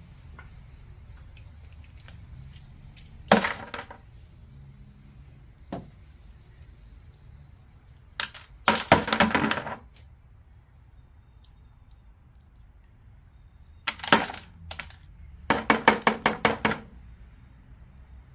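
Small steel needle rollers and pieces of a pressed-out rocker arm trunnion bearing clinking and rattling as they are dumped into a pail, in four bursts of rapid metallic clinks.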